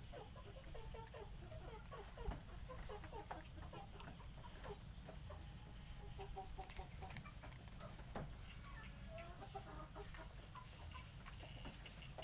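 Chickens clucking in many quick, short notes, with scattered faint clicks.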